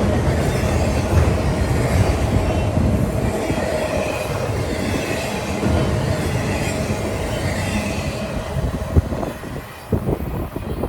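A train rolling past, with a heavy low rumble and a steady wheel squeal. It fades away over the last few seconds, leaving a few scattered knocks.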